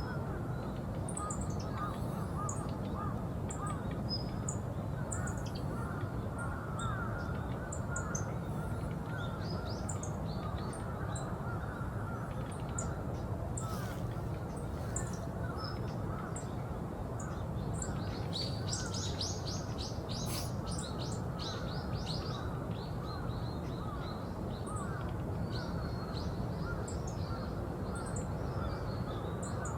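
Wild birds calling: many short, high chirps scattered throughout, a quick run of notes about two-thirds of the way through, and lower repeated calls, over a steady low background rumble.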